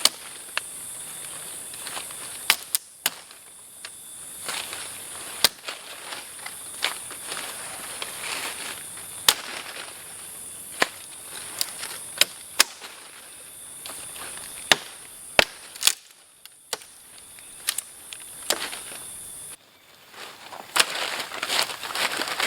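A steady high-pitched insect chorus in the forest, cut off abruptly near the end. Over it are irregular sharp snaps and pops, one every second or so.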